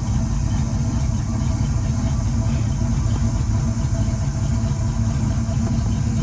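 Box Chevy's engine idling steadily with an even, low running sound. The engine is smoking badly and had an oily spark plug; the mechanic thinks it either needs a real bad oil change or has a problem in the heads.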